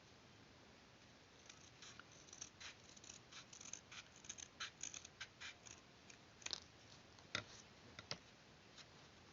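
Scissors cutting paper: a quick, irregular run of small snips, then a few louder single snips near the end.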